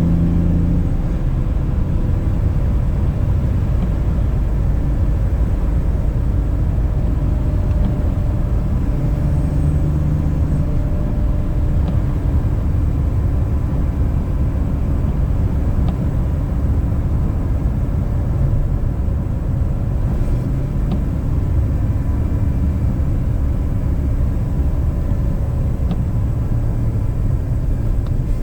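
BMW E46 inline-six engine with a K&N cone intake, running steadily at a light cruise with a low rumble of engine and road noise and no hard acceleration.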